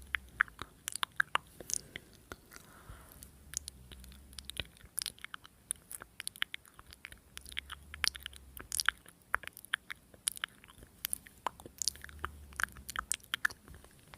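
Close-up crackling and crunching in a person's mouth: many irregular sharp snaps, like firewood burning.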